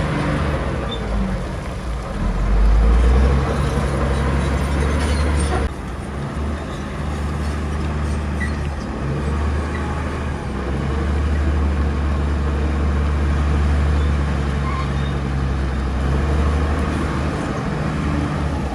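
Bulldozer's diesel engine running steadily with a deep, even drone, swelling briefly about two seconds in, and the higher clatter dropping away suddenly about six seconds in.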